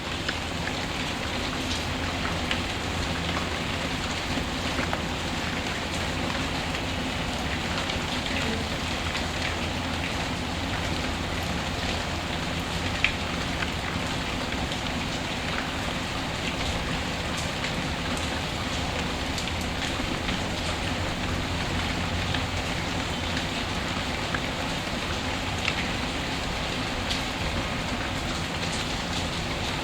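Steady rain falling: an even, unbroken hiss with scattered sharp ticks of drops, one a little louder about halfway through.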